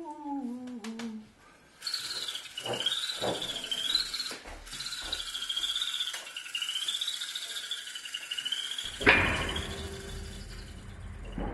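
A high, warbling whistle-like tone that wavers slowly up and down over a steady hiss. About nine seconds in there is a sudden sharp hit, followed by a low rumble.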